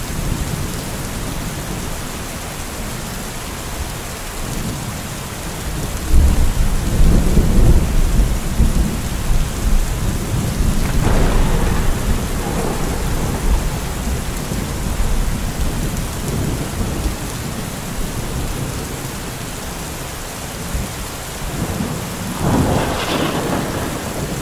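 Thunderstorm: steady rain, with a long low roll of thunder starting about six seconds in and another thunderclap near the end.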